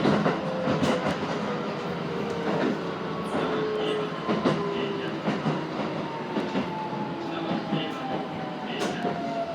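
Electric commuter train heard from inside the car, its motor whine slowly falling in pitch as it slows for a station, with wheels clicking over rail joints and a steady running rumble.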